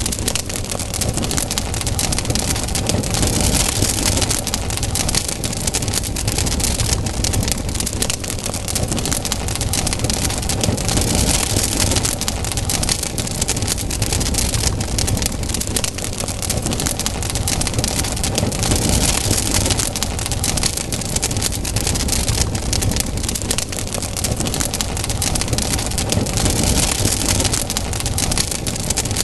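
Wood campfire burning, with dense, continuous crackling and popping over a steady low rumble.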